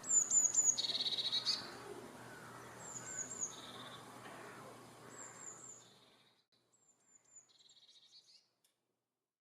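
A songbird singing the same short phrase about four times: a few quick, high, falling notes followed by a lower trill, getting fainter toward the end.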